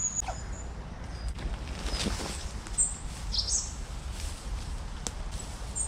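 Woodland ambience: a handful of short, high bird chirps and whistles at irregular intervals over a steady low rumble.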